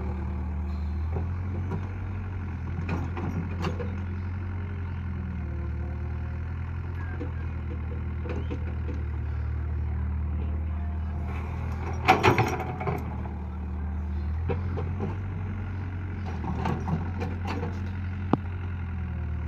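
Heavy diesel engine running steadily at a constant speed, with scattered clanks and one short, loud burst of noise about twelve seconds in.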